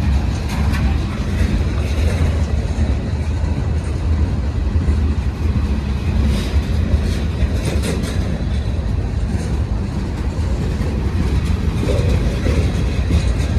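Train rolling past: a steady low rumble with occasional clicks from the wheels.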